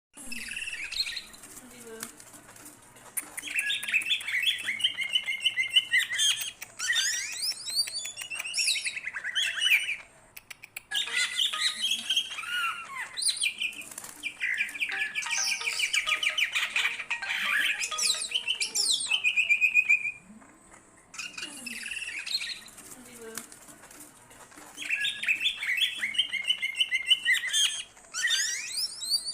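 Green leafbird (cucak ijo) singing in full, continuous voice (gacor): long, varied phrases of rapid chattering notes and whistles, with short pauses about ten and twenty seconds in.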